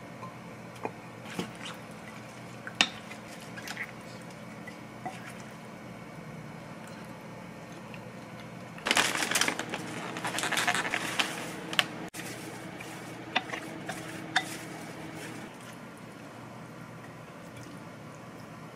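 Kitchen sounds: light clinks and taps of dishes and utensils, with a few seconds of liquid splashing or pouring about nine seconds in.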